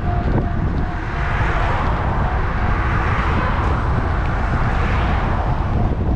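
A motor vehicle passing close by, its noise swelling from about a second in, peaking in the middle and fading away, over a steady wind rumble on the microphone from riding.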